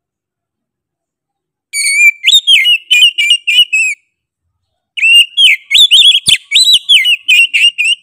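Oriental magpie-robin (kacer) singing: two loud phrases of rapid whistled notes with quick up-and-down slides, each two to three seconds long, about a second apart.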